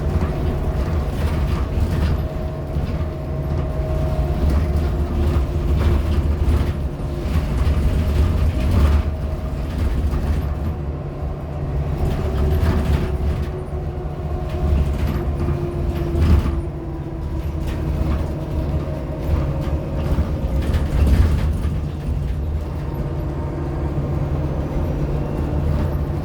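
Inside a 2014 Nova LFSA HEV hybrid city bus (Cummins ISL9 diesel with an Allison H40 EP hybrid drive) under way: a steady low drivetrain hum with faint wavering tones, and frequent small rattles and clicks from the body.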